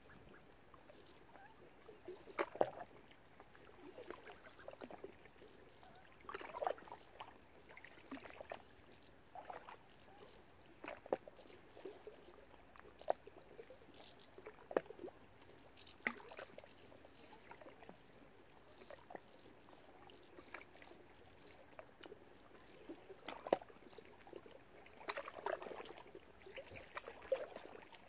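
Light, irregular water splashes and trickling, with short sharp clicks every second or two, from waterfowl dabbling and moving at the water's surface.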